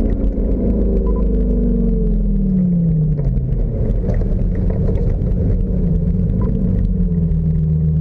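Lamborghini engine running, heard from inside the open-top cabin: its revs fall over the first three seconds or so, then it holds a steady low note from about seven seconds in.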